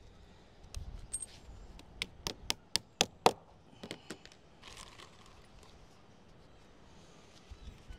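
Hand tool striking in a quick run of sharp taps, about four a second, between two and three and a half seconds in, with a couple more just before four seconds. The taps come during lead capping work on a parapet wall.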